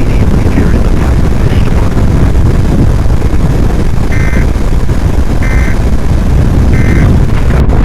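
Strong wind buffeting the microphone: a loud, steady low rumble. Three short electronic beeps sound a little over a second apart in the second half.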